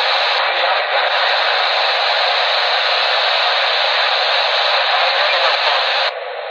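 Steady static hissing from the speaker of a 1988 Realistic TRC-409 emergency CB radio as it receives between transmissions; the hiss drops off sharply about six seconds in.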